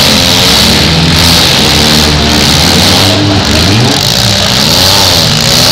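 Several demolition derby cars' engines running at once, loud and steady, their pitches rising and falling as they rev.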